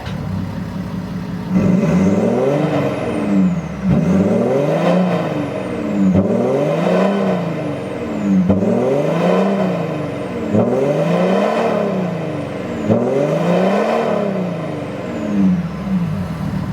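Kia Mohave engine revved repeatedly through an aftermarket variable (valved) exhaust, about seven throttle blips roughly two seconds apart. The pitch rises and falls with each one and settles back toward idle at the end.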